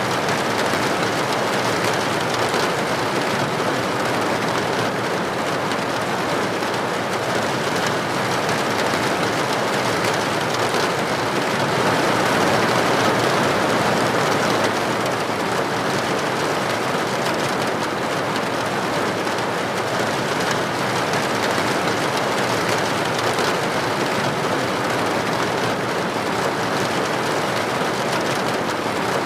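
Steady heavy rain hissing on a roof or window, a dense even patter that swells slightly about halfway through.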